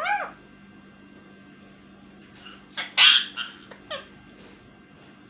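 Ringneck parrot calling: one short arching call at the start, then a quick burst of several squawks and calls about three to four seconds in.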